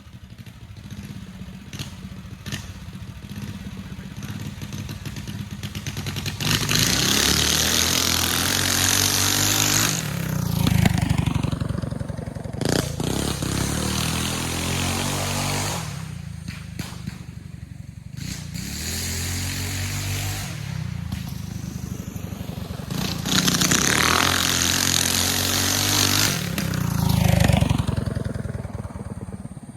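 Single-cylinder four-stroke Tillotson 212 engine on a full-suspension Trailmaster MB200 mini bike, ridden hard: it winds up in pitch under full throttle twice, each time with a loud rush of noise, and drops back when the throttle is let off for the corners.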